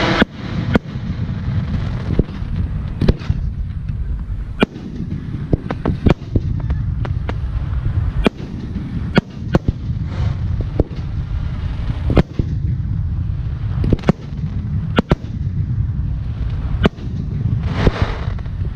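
Aerial firework shells bursting in quick, irregular succession, sharp booms about one to two a second over a steady low rumble, with a rising hiss swelling near the end.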